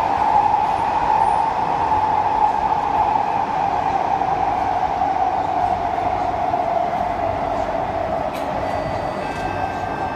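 Inside an SMRT C151A metro car running through the tunnel and slowing on the approach to a station: a steady rushing band of wheel and running noise that slowly drifts lower in pitch. Faint steady high whines come in near the end.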